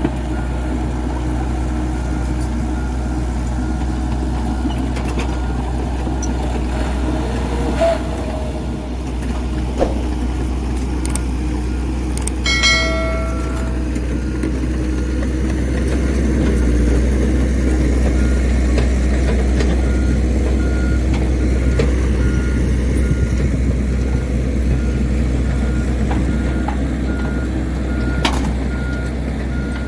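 Dump truck's diesel engine running with a steady low rumble while its reversing alarm beeps about twice a second. The beeps stop for a while in the middle, and a short higher tone sounds about twelve seconds in.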